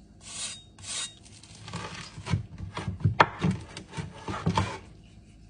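Irregular scraping and rubbing with a few sharp knocks, from a crunchwrap being handled in a frying pan. Two short swishes come first, then a run of scrapes and clicks that stops near the end.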